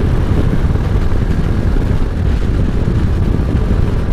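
Harley-Davidson V-twin motorcycle on the move: a steady, loud low rumble of engine and wind rushing over the microphone.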